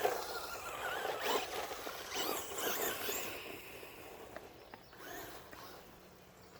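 Traxxas Rustler VXL's brushless motor whining as the truck speeds up and slows down, the pitch rising and falling several times, then growing fainter as it runs farther off.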